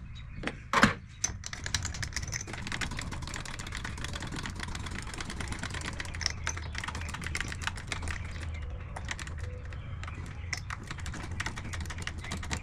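Metal clicking and clattering as a workpiece is fitted and tightened in a lathe chuck: one sharp knock about a second in, then fast, irregular small clicks, over a steady low hum.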